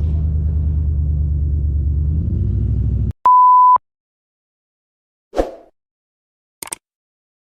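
A vehicle engine running steadily, cut off abruptly about three seconds in. Then a loud, steady single-pitch beep lasting about half a second, followed by a short thump and a brief click.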